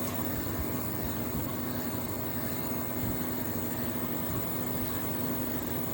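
Outdoor unit of a Samsung Windfree 1.5-ton inverter split AC running: a steady whir of its condenser fan with a constant low hum. This is its normal running noise.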